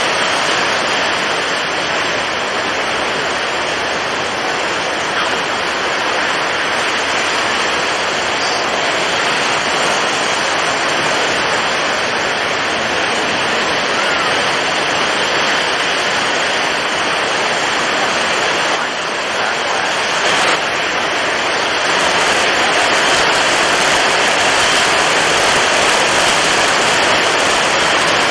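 Storm at sea: strong wind and breaking waves blending into a loud, steady rush, growing a little louder about three quarters of the way through.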